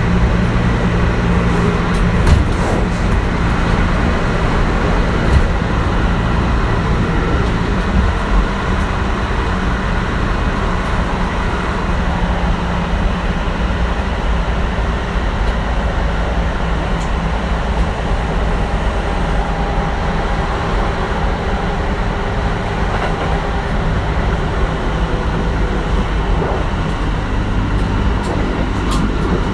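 Kintetsu 1420 series electric train with Mitsubishi GTO-VVVF drive, running along the line and heard from inside the car: a steady wheel and track rumble. There are a few knocks in the first eight seconds.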